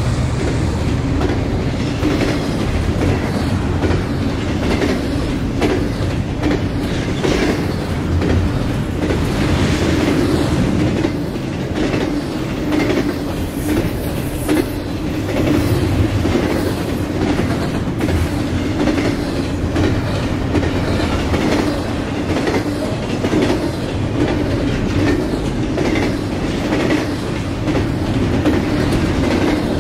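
Freight train cars rolling past steadily, their wheels clicking over rail joints with a continuous rumble.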